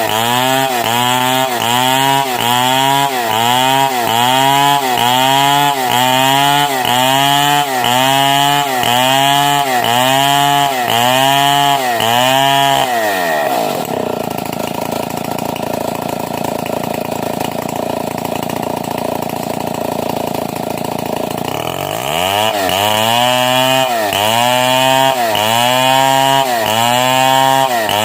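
Stihl 070 two-stroke chainsaw ripping lengthwise through a log, its engine pitch rising and falling in an even rhythm about three times every two seconds. About halfway through, the pitch sinks to a lower, steadier note for several seconds before the rise-and-fall rhythm picks up again.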